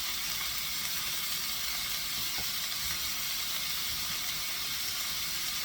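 Food sizzling steadily in hot oil in a frying pan.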